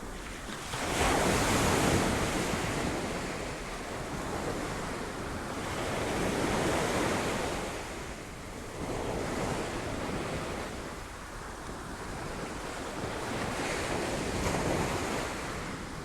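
Sea waves breaking on rocks, a steady wash of surf that swells and ebbs in slow surges, the loudest about a second in and others every few seconds after.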